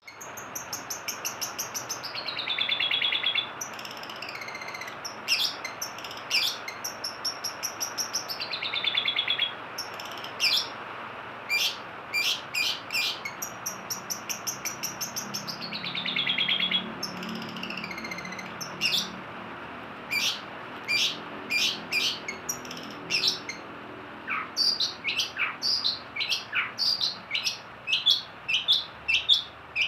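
Long-tailed shrike (cendet) singing: three fast rattling trills that fall in pitch, between series of short, sharp, high single notes about a second apart. The sharp notes come quicker near the end.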